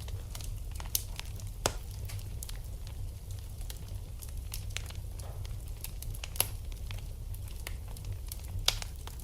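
Wood fire crackling in a fireplace: irregular sharp pops and snaps over a steady low rumble, with a few louder pops, the loudest about six and a half seconds in.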